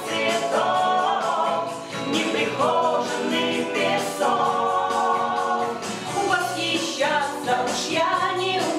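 Group of voices singing a Russian song in harmony, with long held notes.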